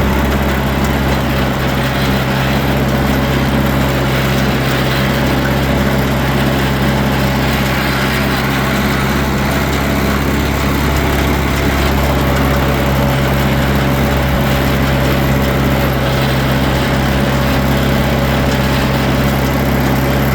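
Tractor engine running loud at a steady, unchanging speed.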